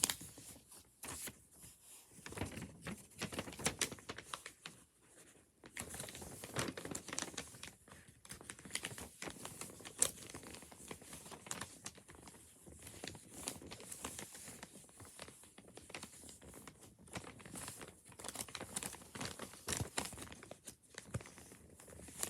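A sheet of paper being folded and creased by hand into a paper fortune teller: irregular crinkling, rustling and sharp crackles of the paper throughout.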